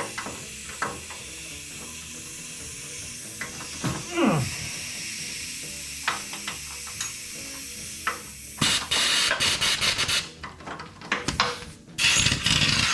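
Steady hiss of compressed air, then from about nine seconds in a pneumatic impact wrench hammering in several loud bursts on a stubborn bolt.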